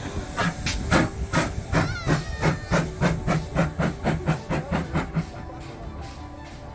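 Steam exhaust beats of a GWR-design 0-6-0 pannier tank engine working quickly, a rapid even chuffing of about four to five beats a second that fades away after about five seconds as the engine draws off.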